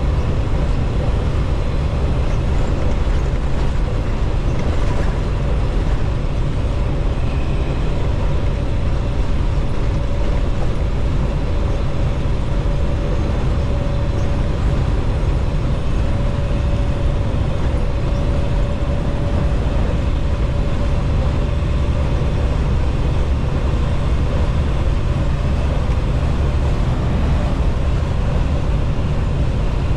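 Semi-truck on the move, heard from inside the cab: steady low engine and road noise with no change in pace.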